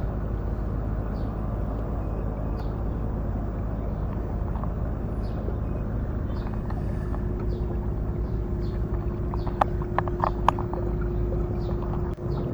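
Steady low rumble of wind and water around a kayak at sea. A faint steady hum joins about halfway, and a quick cluster of sharp knocks comes about three-quarters of the way through.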